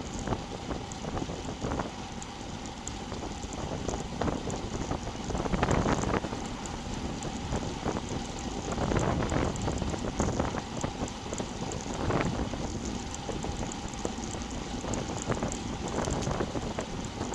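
Wind buffeting the microphone of a bike-mounted action camera while riding, a rough rushing noise that swells and eases in gusts.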